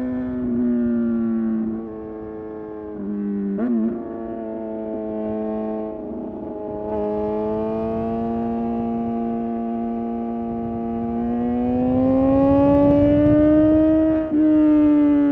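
Suzuki GSX-R750 inline-four engine and exhaust running at high revs while riding. A quick blip in revs comes about four seconds in, then a steady stretch, a climb in revs over the last few seconds, and a brief sudden drop near the end.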